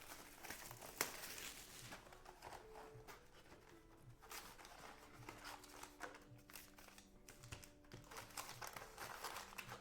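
Faint crinkling and tearing of trading-card pack wrappers being ripped open, with small scattered clicks and a sharper click about a second in.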